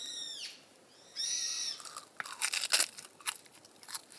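A raucous bird giving shrill screeching calls: two calls in the first two seconds, each arching up and falling away, followed by a scatter of sharp crackles.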